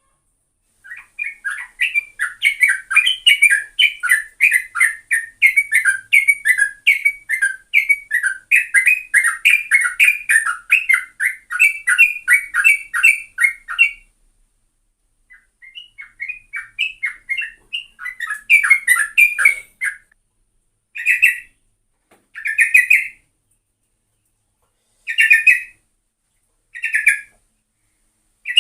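Yellow-vented bulbul (trucuk) singing: a long, fast run of chattering notes in the rapid 'ropel' style, a brief break about 14 seconds in, more chattering, then short separate phrases every second or two near the end.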